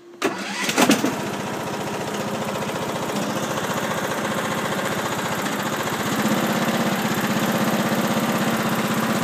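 A 21 hp Kohler lawn tractor engine starting: a short burst of cranking as it catches, then running steadily with an even pulse. About six seconds in it runs a little louder and faster, as if the throttle is opened.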